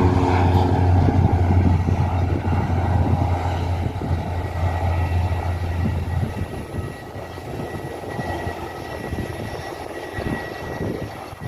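Cessna 208 Caravan's single Pratt & Whitney PT6A turboprop at takeoff power, a low steady propeller drone with a thin high whine, fading steadily as the aircraft climbs away; the deep drone drops out about halfway through.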